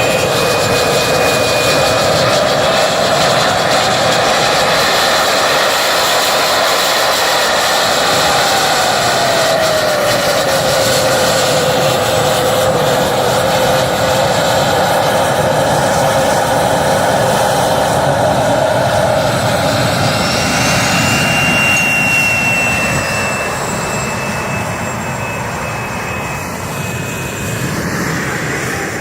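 Russian T-80 tank's 1,250 hp gas turbine engine running with a steady, jet-like whine. Its main pitch drops a little about nine seconds in, and the sound eases off over the last several seconds.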